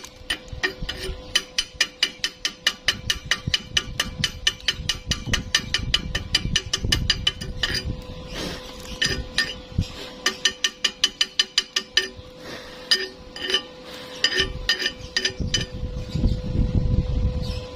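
Rapid metallic tapping on steel, about five or six ringing strikes a second, becoming slower and irregular about halfway through, over a steady hum.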